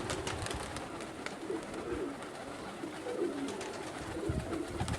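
Pigeons cooing, several short low coos one after another.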